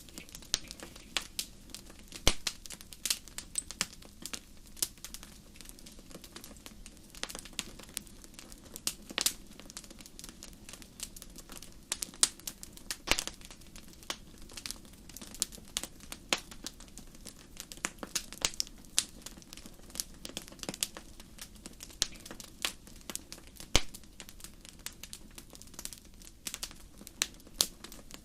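Campfire crackling: many irregular sharp pops and snaps over a low, steady rumble.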